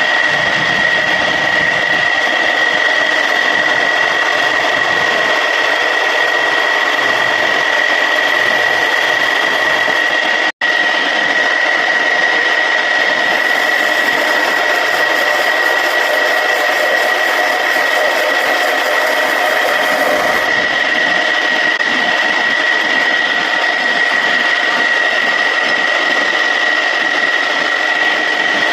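Homemade wood lathe running steadily with a high whine while a piece of surian wood is turned. The sound cuts out for an instant about ten seconds in.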